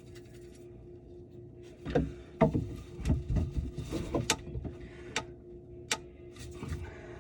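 A run of sharp knocks, clicks and clatter from objects being handled and set down, loudest a couple of seconds in and tapering off by about six seconds, over a steady low hum.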